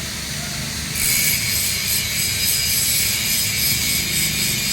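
Welding arc crackling and sizzling on a steel pipe joint. The crackle drops away briefly, then picks up again about a second in and runs on steadily.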